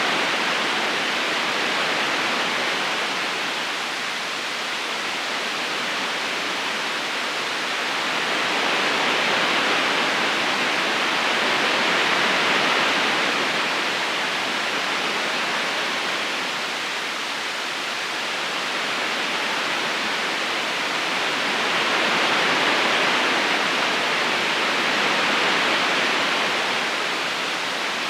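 River current rushing steadily, an even watery hiss that swells and eases gently every few seconds.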